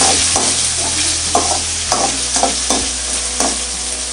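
Ginger-garlic paste and whole spices sizzling in hot oil in a metal kadai, while a perforated steel ladle stirs and scrapes the pan in repeated quick strokes over the steady frying hiss.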